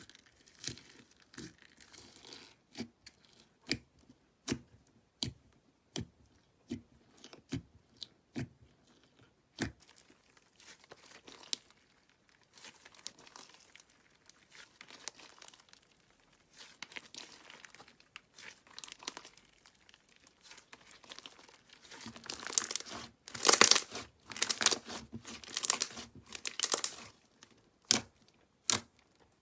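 Slime being squeezed and pressed by hand. First comes a run of sharp pops, about one every three-quarters of a second, then a stretch of softer crackling. Near the end the crackling grows louder and crunchy.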